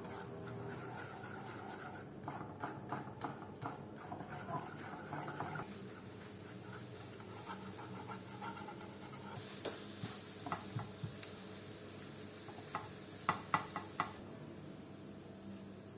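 Food being stirred in a frying pan with a light, steady sizzle, the utensil clicking against the pan now and then, with a cluster of sharper taps near the end.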